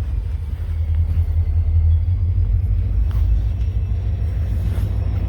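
Train going by with a steady, heavy low rumble.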